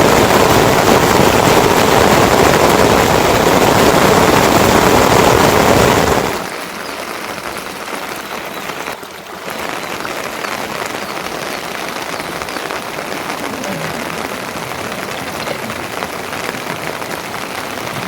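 Steady rain falling, heavy for about the first six seconds, then suddenly softer and lighter for the rest, with a brief dip about nine seconds in.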